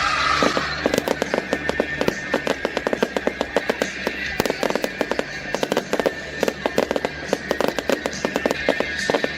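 Fireworks crackling: a dense, irregular patter of sharp cracks, many each second, over music playing.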